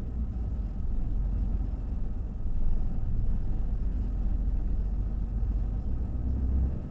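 Steady low rumble of a car driving, heard from inside the cabin: engine and tyre noise with no distinct events.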